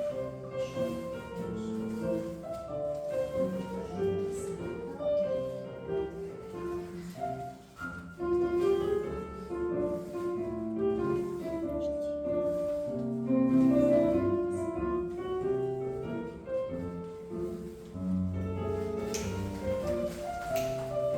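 Classical piano music playing as accompaniment for a ballet exercise.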